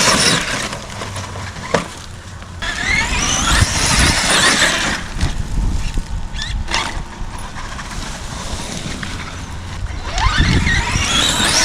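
Traxxas Xmaxx RC monster truck's electric motor and drivetrain whining, rising in pitch with each burst of throttle, about three times, over a low rumble.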